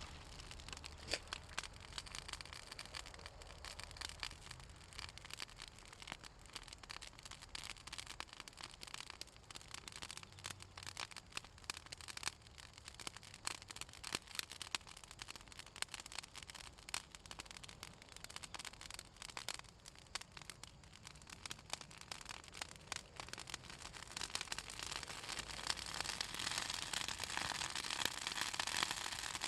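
Pruned southern magnolia branches burning in a bonfire, crackling and popping continually as the oil in the wood burns. The crackle and hiss of the fire grow louder over the last few seconds.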